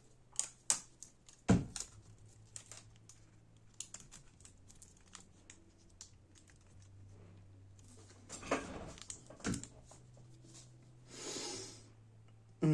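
Kapton tape being peeled and handled over laptop antenna cables, with scattered light clicks and taps on the laptop's parts. There is a sharp knock about a second and a half in and a short rasping tear near the end.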